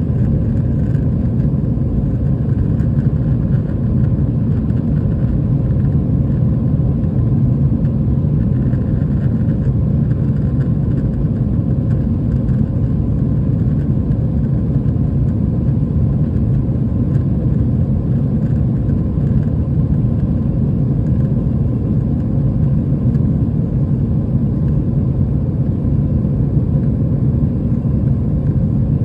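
Steady cabin noise of an Airbus A320 in flight: a low, even rumble of engine and airflow.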